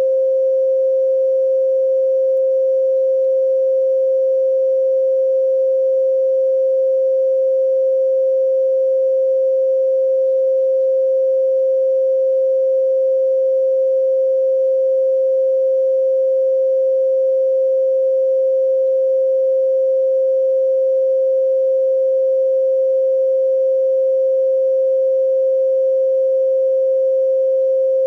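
A pure 528 Hz sine tone, steady and unchanging.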